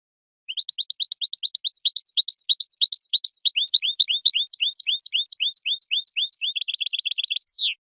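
European goldfinch singing: a long run of rapid, evenly repeated high chirping notes at about seven a second, shifting midway to doubled notes and then a quicker trill, ending on one falling note and cutting off suddenly.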